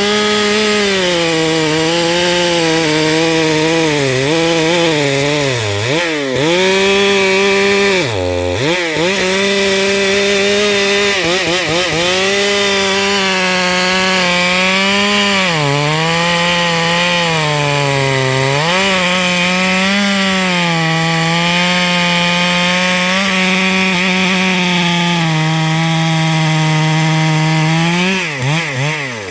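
Stihl MS 382 two-stroke chainsaw at full throttle, ripping a eucalyptus log lengthwise. The engine pitch sags and recovers as the chain loads up in the cut. It drops sharply twice a few seconds in and again near the end.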